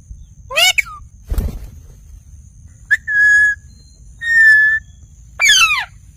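Indian ringneck parrot calling: a short call, then two steady, level whistles of about half a second each, then a falling screech near the end. A soft low thump comes early on between the calls.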